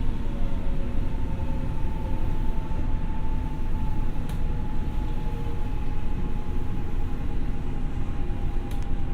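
Tokyo Metro 6000 series electric train running: a steady rumble under a motor whine that sinks slowly in pitch. Two sharp clicks come about four seconds in and near the end.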